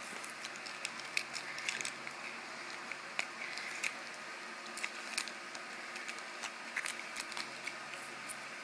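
Quiet, irregular little clicks and crackles of a piece of Laffy Taffy being unwrapped and eaten, over a steady low hum.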